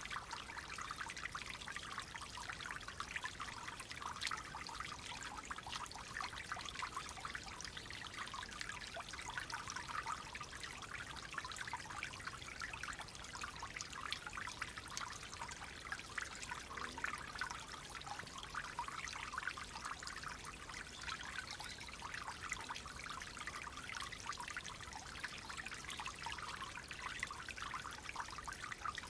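Clear water flowing in a small stream, trickling and burbling steadily.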